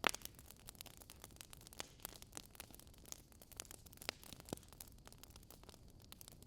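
Campfire crackling with soft crackles: scattered sharp pops and snaps of burning wood at an irregular pace, one louder pop right at the start.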